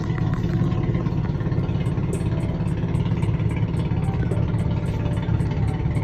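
Engine idling with a steady low rumble and a faint, even ticking of about four a second.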